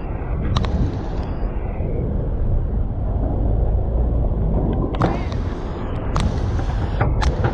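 Steady low rumble of wind on the microphone and road noise while riding a bicycle, with a few sharp clicks and knocks between about five and seven seconds in.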